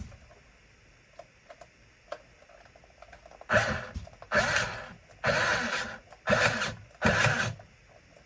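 Small electric motor and gearbox of a vintage RC buggy running in five short bursts as the throttle is blipped, after a few faint clicks. The buggy has been sounding like it has a slipping gear or a bad ground.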